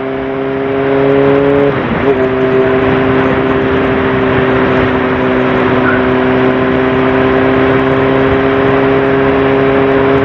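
Sportbike engine pulling under way, with a quick gear change about two seconds in, then holding a steady pitch at cruising speed over a constant rush of wind and road noise.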